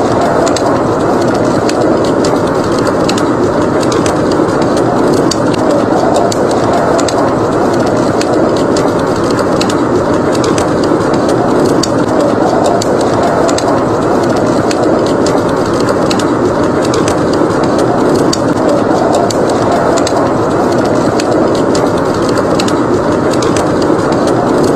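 Wood fire crackling, with frequent small pops, over a steady roar of blizzard wind.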